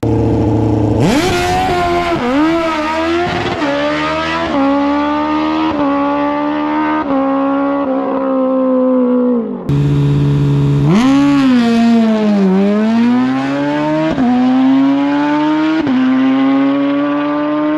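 Sport motorcycle engine at full throttle, launching and accelerating hard down a drag strip. Its pitch climbs, then dips briefly at each quick upshift. About ten seconds in the sound cuts abruptly to another hard run.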